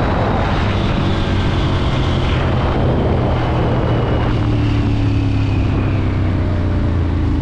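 Motorcycle engine running steadily, with a faint high tone that slowly falls in pitch across the sound.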